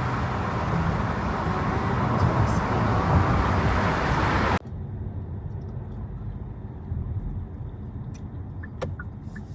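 A loud, even wash of noise that cuts off suddenly about halfway through, followed by the quieter low rumble of a car on the road, with a few light clicks.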